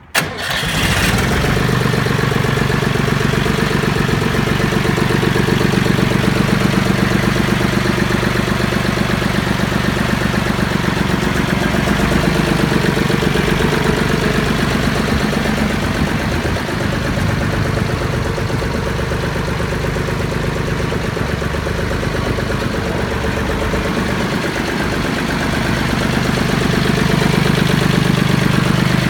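Zetor 4712 tractor's diesel engine starting up and then running at a steady idle.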